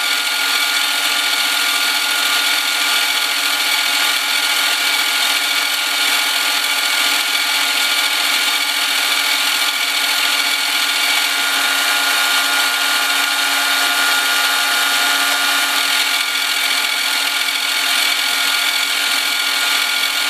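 Milling machine cutting a face on a stainless steel workpiece: a steady run of cutting and motor noise with several held tones.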